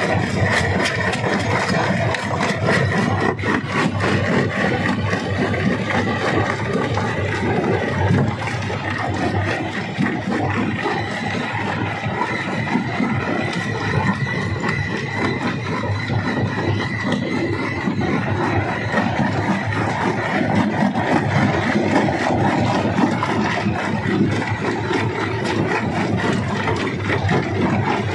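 Stone crusher working rock: continuous grinding, rattling and scraping of stone, with many small knocks, over the steady running of the machine.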